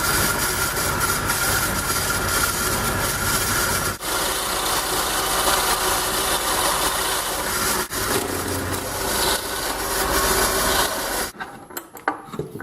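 Power drill boring a 7/8-inch Forstner bit into a wooden support board, running steadily with two brief dips, then stopping about eleven seconds in, followed by a few light knocks.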